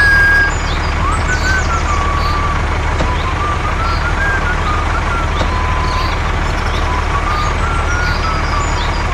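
An engine running steadily with an even low throb, thin high wavering tones sounding above it on and off.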